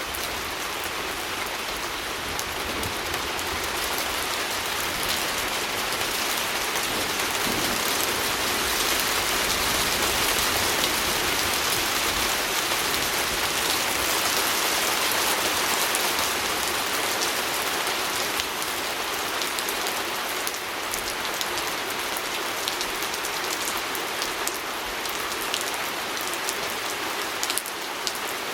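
Steady rain pattering on a window, a dense hiss of drops with fine ticks throughout, swelling slightly in the middle.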